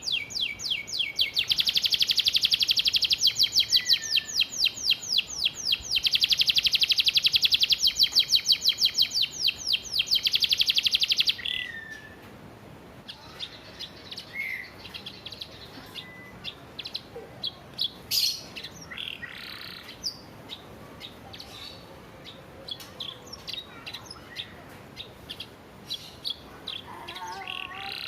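Domestic canary singing: a loud, fast rattling trill of rapidly repeated high notes for roughly the first eleven seconds, then quieter scattered chirps and short phrases.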